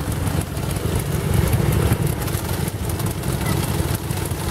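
Vintage motorcycle engine running, a steady low rumble.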